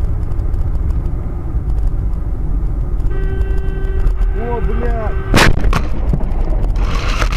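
Car collision recorded by a dashcam: a loud, steady low rumble of road and wind noise, a car horn sounding for about two seconds, then a sharp crash bang about five seconds in, with a smaller knock right after.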